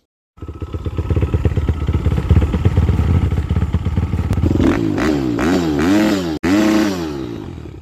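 Motorcycle engine running and being revved up and down repeatedly, starting abruptly about half a second in, with a brief cut near the middle of the revving.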